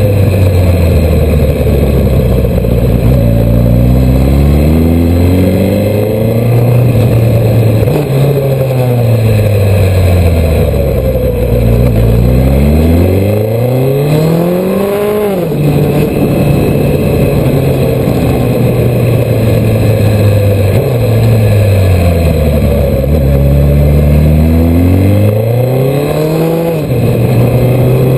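Suzuki Hayabusa's inline-four engine heard from on board over wind noise. The revs fall, then climb steadily and cut off sharply about halfway through. After a steady stretch they fall and climb again near the end.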